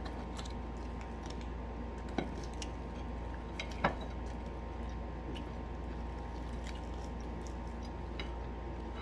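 Eating at a table: chewing with small clicks, and two sharper clinks of plate or cutlery about two and four seconds in, over a steady low hum.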